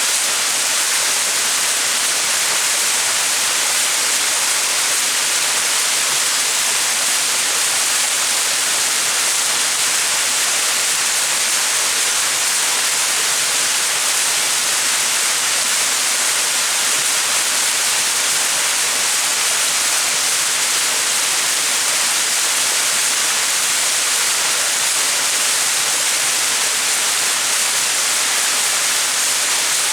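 Small mountain waterfall splashing, a steady, even rush of falling water with no change.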